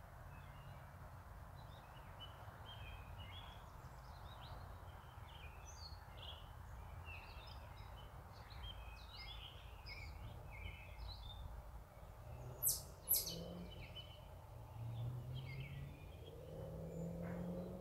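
Small birds chirping and singing over a steady low outdoor rumble, with two short, sharp high-pitched sounds in quick succession about two-thirds of the way through.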